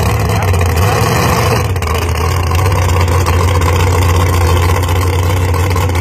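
Engine of a super modified mud-bog truck running loud and steady, with no sharp revs or breaks.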